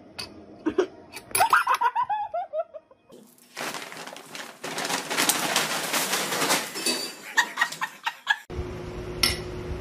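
A few sharp clinks and a short burst of laughter, then a cat thrashing inside a brown paper bag: loud, continuous paper crinkling and rustling for about five seconds, cut off suddenly near the end.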